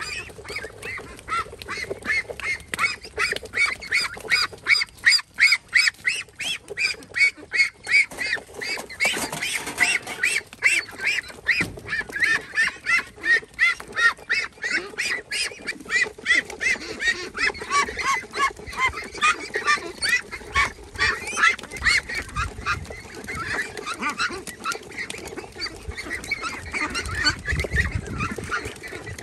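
A flock of birds calling, a dense run of short repeated calls several a second, with waterfowl-like honking.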